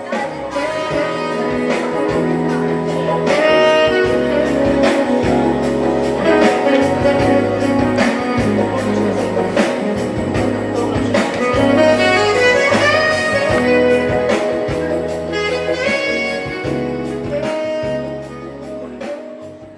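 Music played through a Nexo PS15 R2 PA speaker and LS1200 subwoofer, with sustained deep bass notes under the melody. It fades out near the end.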